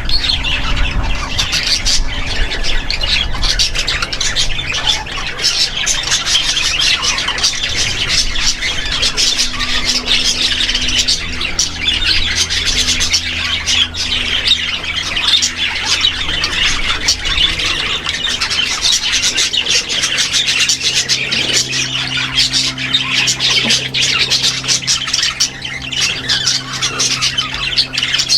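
Many caged small parrots, lovebirds among them, chattering and squawking all at once in a dense, unbroken din.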